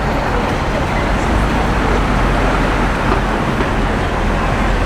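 Steady street traffic noise: vehicles' engines and tyres running together as a continuous rumble with no single event standing out.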